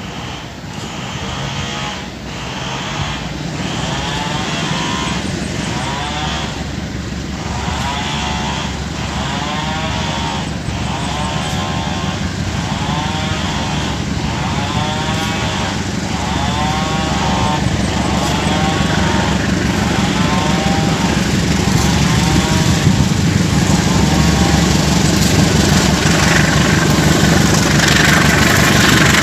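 Diesel train engine rumble growing steadily louder. Over it, a repeating pitched electronic signal sounds about once a second and stops a few seconds before the end.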